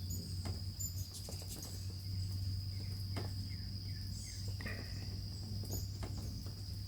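Insects trilling in a steady high drone, with a few short high bird chirps over it and a steady low hum underneath.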